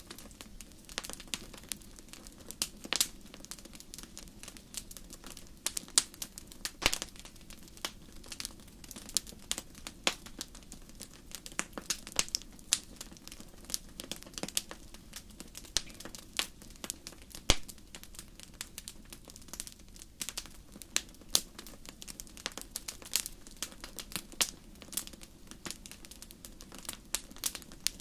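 Wood fire crackling in a fireplace: irregular sharp pops and snaps, several a second with some louder ones, over a low steady hiss of burning.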